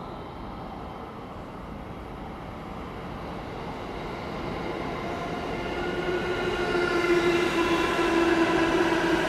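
An electric commuter train approaching the station platform, its running rumble growing steadily louder. About six seconds in, the whine of its traction motors comes in, holding a near-steady pitch that sags slightly as the train slows.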